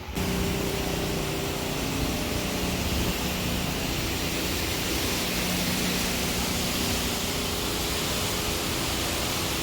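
Vehicle driving: a steady rushing noise with a faint low hum beneath it.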